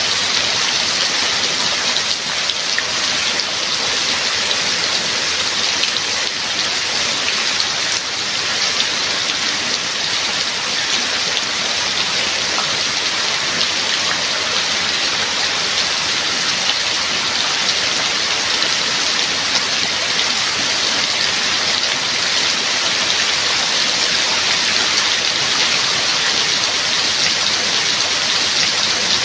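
Steady heavy rain falling, an even hiss of drops with no let-up.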